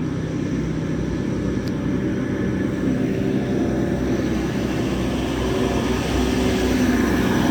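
Grand Central Class 180 diesel multiple unit's underfloor diesel engines running under power as the train pulls away, a steady engine drone that slowly grows louder.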